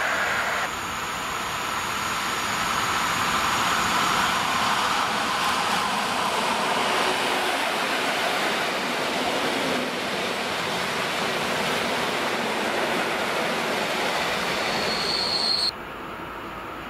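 A pair of coupled EN57 electric multiple units passing at speed: a steady rumble and rush of wheels on rail, with a brief high squeal near the end. It then cuts abruptly to a fainter, distant train running.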